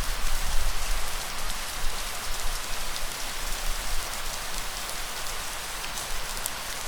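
Steady heavy rain falling on a surface, a dense even hiss with fine crackling drops, over a low rumble that swells and fades.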